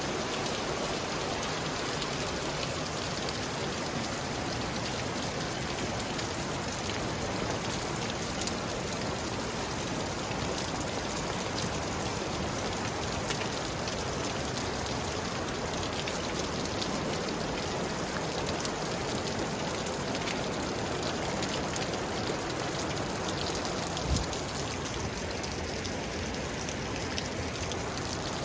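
Steady rush of a cascade waterfall and creek, with one brief thump near the end.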